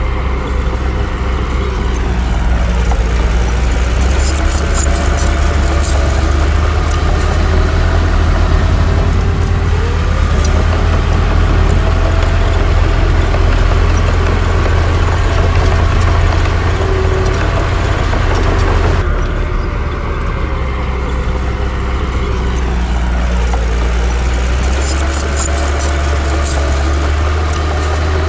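Heavy earthmoving machinery's diesel engine running steadily and loudly, its pitch drifting up and down with the load, with scattered metallic clicks and clanks over it. The sound changes abruptly about two-thirds of the way through.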